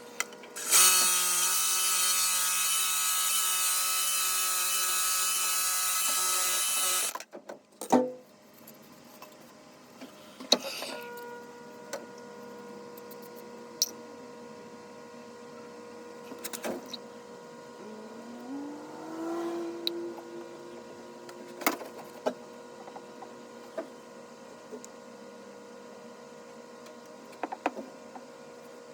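A small motor runs with a steady whir for about six seconds, then stops abruptly. Scattered clicks and knocks follow.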